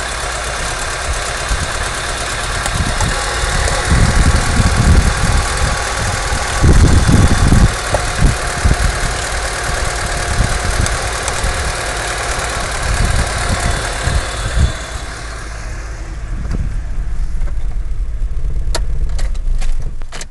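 Car petrol engine running roughly while its HT leads are pulled off with the engine running, each disconnected lead dropping a cylinder out so the engine stumbles. Heavy uneven low thumps come in surges about four and seven seconds in.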